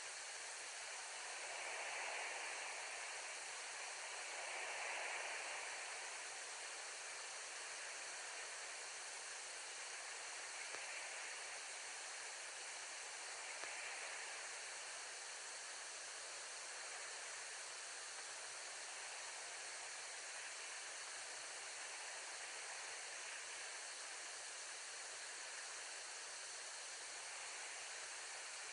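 Steady outdoor background hiss with a few soft swells in the first half; no distinct calls or other events stand out.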